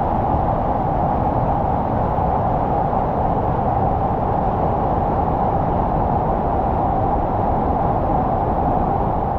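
Strong wind rushing across the microphone, a loud steady rushing noise.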